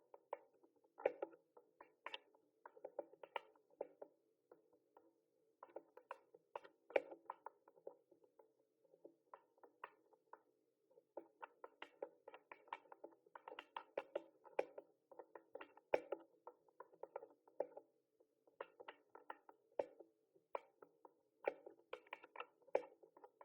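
Typing on a mechanical keyboard: quick clicky keystrokes in irregular runs, broken by short pauses.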